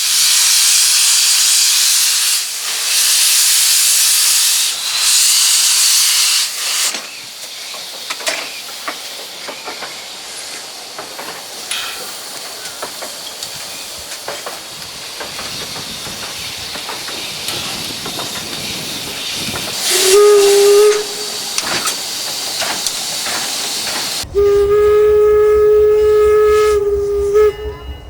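1875 Baldwin 4-4-0 narrow-gauge steam locomotive Eureka starting off, venting three long loud bursts of steam hiss, then rolling along with faint clicking. Its steam whistle blows a short blast and, a few seconds later, a longer one.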